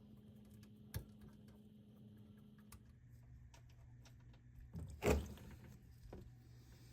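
A few small clicks and knocks from handling tools or parts, with one louder knock about five seconds in, over a faint low steady hum.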